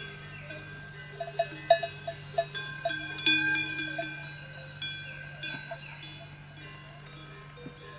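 Metal bells clinking and ringing irregularly, many overlapping notes at different pitches, busiest in the first half, over a low steady hum.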